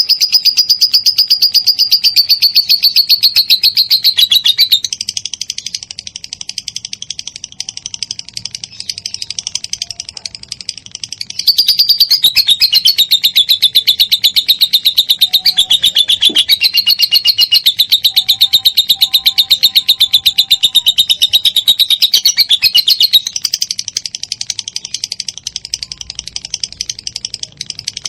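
Lovebird singing its long ngekek chatter: a very fast, unbroken run of high, shrill repeated notes. It is louder for the first few seconds and again from about 11 to 23 seconds, and softer in between and near the end.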